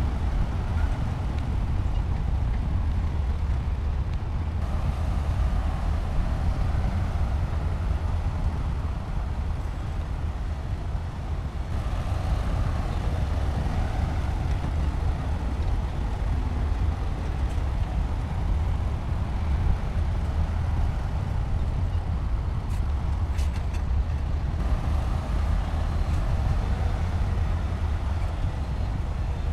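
Heavy diesel engine of earthmoving equipment running steadily with a deep, low rumble. Its tone shifts a few times.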